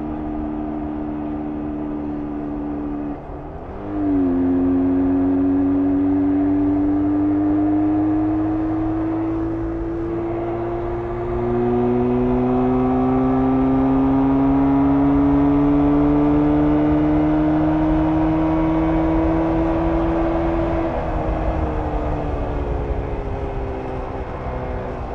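1994 Jawa 350 (type 638) air-cooled two-stroke twin with its stock exhaust, pulling through the gears under way. There is a shift about three seconds in, with the engine getting louder just after. The revs climb slowly, drop at another upshift about eleven seconds in, and climb again before falling away near the end as the throttle comes off.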